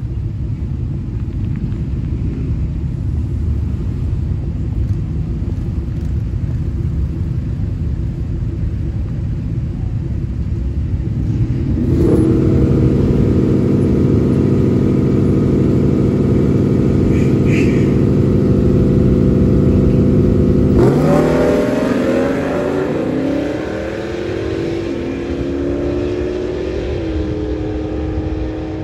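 Dodge Challenger R/T's V8 rumbling at idle, then held at steady higher revs from about twelve seconds in. About 21 seconds in it launches on a drag pass, revs climbing and dropping back through upshifts as it pulls away.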